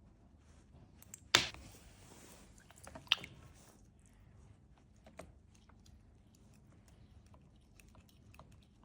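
Plastic parts of a NOBXBON cat fountain being handled: a scattering of small clicks and knocks. A louder clack comes about a second and a half in, followed by a brief hiss, and another sharp click comes about three seconds in.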